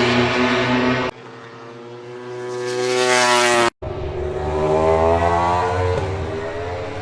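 MotoGP race bikes' four-cylinder engines at high revs, in several cut-together clips. A bike's note grows louder and higher until a hard cut just before four seconds in, then another bike passes, its pitch rising and then falling.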